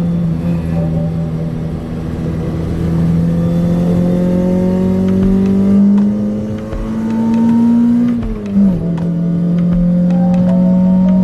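Toyota Corolla's 4A-GE four-cylinder engine with individual throttle bodies pulling under acceleration, its pitch climbing steadily. The pitch drops sharply at a gear change about eight and a half seconds in, then climbs again.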